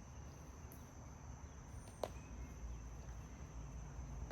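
Faint, steady high-pitched chirring of insects over a low rumble, with one sharp click about two seconds in.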